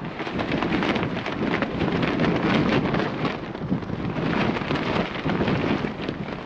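Strong gusty wind buffeting the microphone: a loud rumbling roar that swells and eases, broken by rapid crackles.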